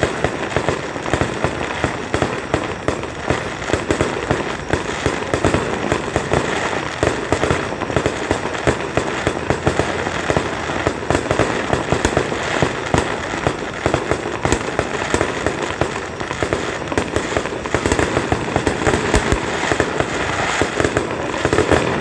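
Aerial fireworks display in full barrage: many shells bursting in rapid succession, a dense run of bangs and crackling with no gaps, a touch louder near the end.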